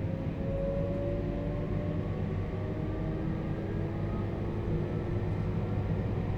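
Running noise inside a JR Hokkaido 721 series electric car: the Toshiba GTO-thyristor VVVF inverter and traction motors give several whining tones that rise slowly in pitch as the train gains speed, over a steady rumble of wheels on rail.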